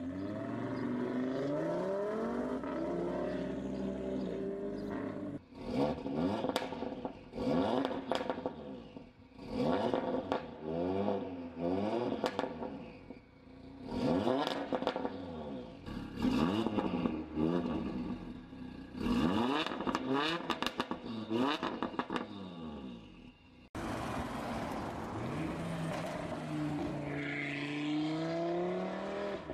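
Audi RS3's turbocharged five-cylinder engine. It first pulls away under acceleration, then a parked RS3 is revved again and again, each blip rising and falling with sharp pops and crackles as the revs drop. Near the end another RS3 accelerates away.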